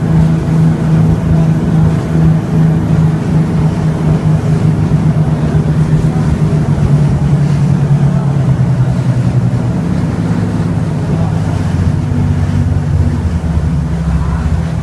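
Motorboat engine running steadily under way, its drone dropping a little in pitch about halfway through.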